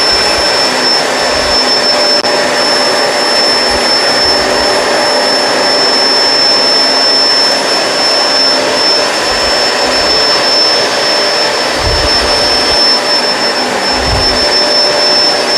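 Kenmore Crossover Ultra upright vacuum running on carpet with its brush roll on: a steady motor rush with a constant high-pitched whine. A couple of low bumps come near the end.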